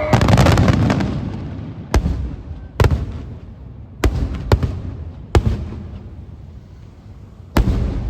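Aerial fireworks shells bursting: a loud burst with dense crackling in the first second, then six separate sharp bangs at irregular intervals of roughly half a second to two seconds.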